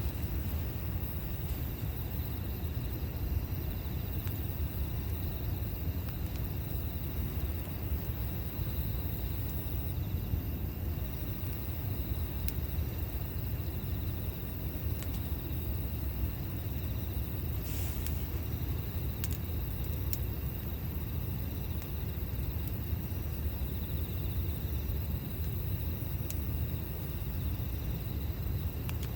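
Campfire burning, with scattered sharp crackles, one of them a little stronger about 18 seconds in, over a steady low rumble.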